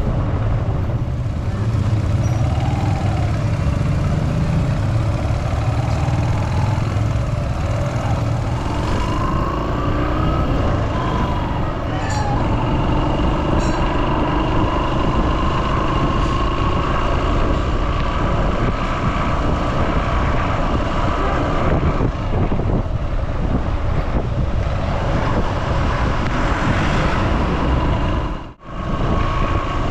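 Road traffic heard from a moving vehicle on rainy city streets: engines running with steady tyre and road noise, engine pitches rising and falling as vehicles speed up and slow down. The sound cuts out briefly near the end.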